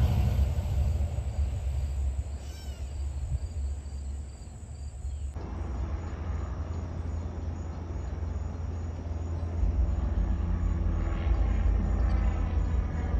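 Low rumble of a Long Island Rail Road diesel train dying away, with a brief high call about two and a half seconds in. After an abrupt change, a train's low rumble approaches from a distance and grows louder from about ten seconds in.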